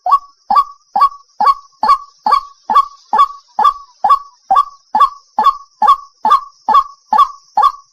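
White-breasted waterhen calling in a fast, even run of short notes, about two a second, each sweeping up to a steady pitch. This is the repeated call played as a lure to attract waterhens.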